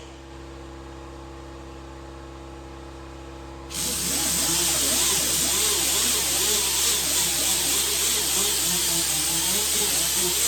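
Small power grinder working on the steel door panel, grinding the welded-on pull pins flush: it stops at the start, leaving only a steady hum, and starts again about four seconds in.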